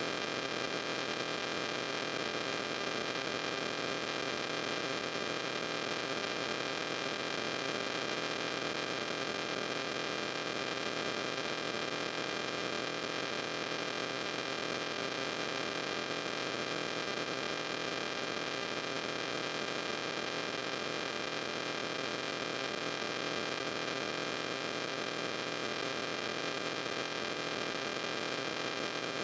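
Steady electrical hiss and hum with several faint high whining tones, unchanging throughout: the noise floor of the recording equipment, with no other sound.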